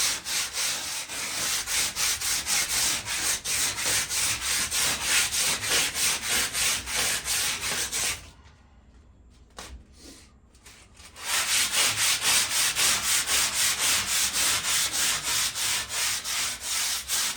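Hand sanding of surface rust on a metal patio table top: quick back-and-forth scraping strokes at about three a second. The strokes stop for about three seconds midway, with a couple of light knocks, then start again.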